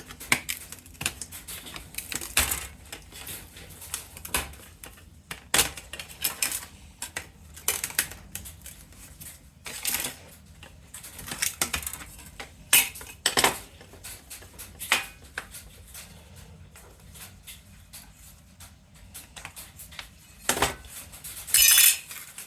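Small metal parts and circuit boards being handled on a workbench: scattered clinks, knocks and clatters at irregular intervals, with a brief louder clatter near the end.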